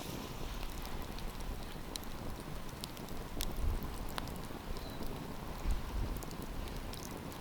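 Wood campfire crackling: scattered sharp pops and snaps over a steady hiss, with a low rumble underneath.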